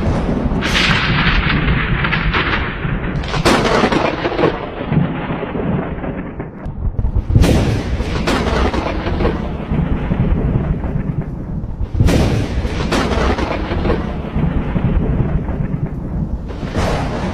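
Thunder: repeated sharp thunderclaps, about seven in all, each fading into a long low rumble that never stops between them.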